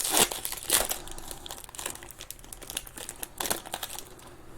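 Trading-card pack wrappers being torn and crinkled as packs are opened, an irregular run of crackling that is busiest in the first second.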